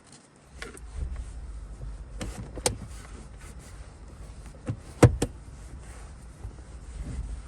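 Cloth being rubbed over a leather car seat: a steady low rumble of handling and rubbing, broken by a few sharp knocks and creaks, the loudest about five seconds in.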